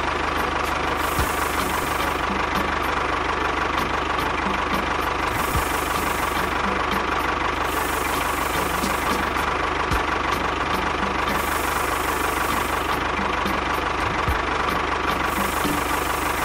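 A tractor-type engine idling steadily, running at an even pace without revving.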